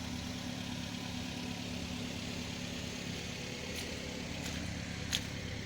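Car engine idling steadily, with a few faint clicks near the end.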